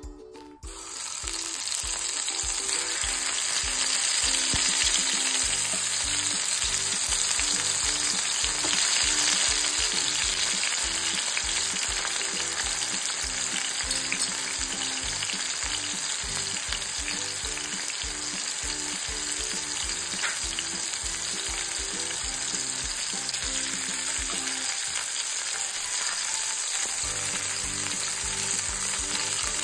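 Whole tomatoes frying in hot refined oil in a pan, a steady loud sizzle that starts about half a second in as they go into the oil. They are being wilted so that their skins will peel off.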